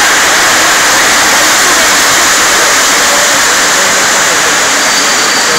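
Passenger coaches of a train rolling past on the rails, a steady loud rushing noise without a clear engine tone.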